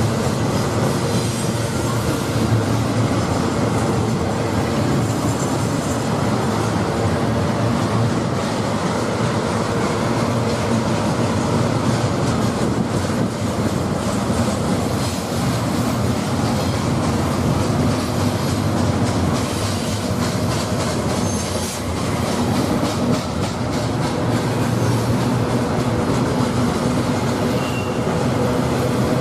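Freight train cars rolling past, steel wheels running steadily on the rails, with faint high-pitched wheel squeal now and then.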